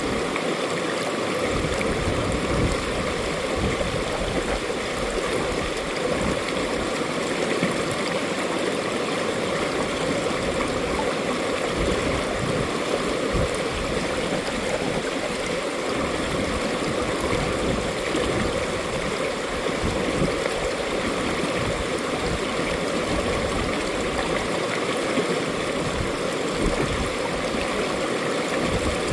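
Mountain valley stream flowing steadily, a continuous even rush and gurgle of water.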